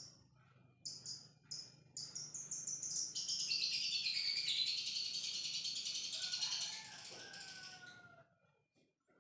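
Lovebird giving a few short high chirps, then from about two seconds in a long unbroken rapid chatter (the 'ngekek' song) lasting about six seconds. A few lower, falling whistles sound near its end.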